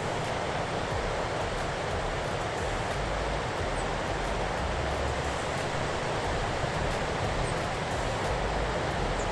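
Steady rushing wash of Gulf surf breaking on the beach, with a low rumble underneath.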